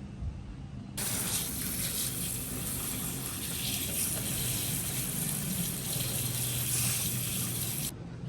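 Water running steadily from a tap into a sink, switched on about a second in and cut off abruptly near the end.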